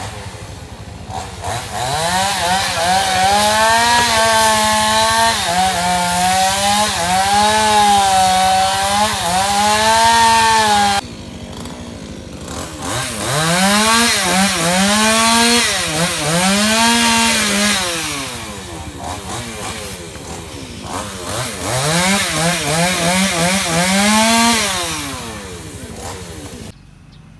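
Two-stroke chainsaw running at high revs and cutting wood, its pitch dipping and recovering again and again as the chain bites. It comes in three spells: a long one that stops abruptly about eleven seconds in, then two shorter ones, with quieter running between them.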